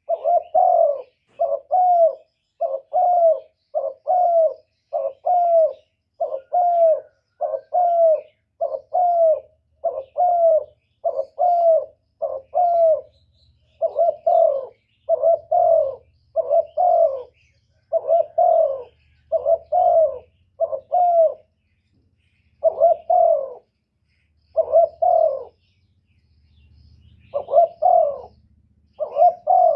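Spotted dove (lure bird) giving a rapid run of short bowing coos, about two a second, with a couple of brief pauses near the end: the urging coo used to draw in and provoke wild doves.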